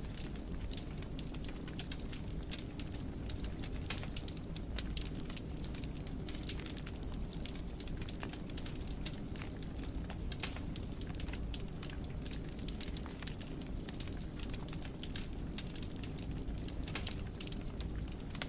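Wood fire crackling in a fireplace: frequent sharp pops and snaps over a steady low rumble of flames.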